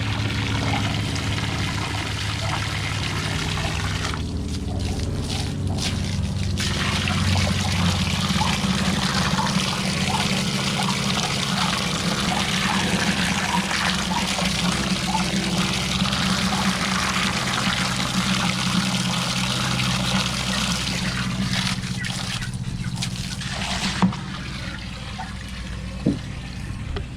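Water running steadily from a hose into a livestock waterer as it fills, over a low steady hum. The flow quietens about three seconds before the end, with two sharp knocks.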